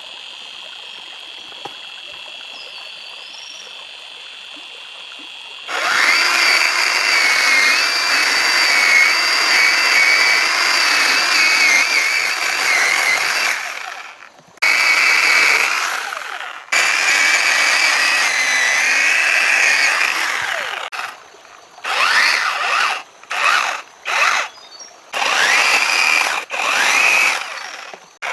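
An electric power tool switching on about six seconds in and running with a high, wavering whine, stopping briefly twice. Near the end it comes in several short on-off bursts.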